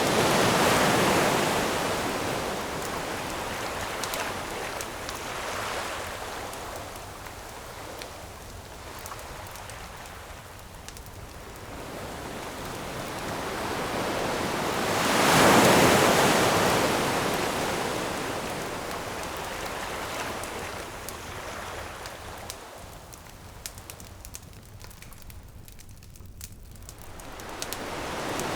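Ocean waves breaking on a shore, each one swelling and then washing back: one breaks about a second in, a bigger one about halfway, and another builds near the end. In the lull before it, the small pops of a burning wood campfire.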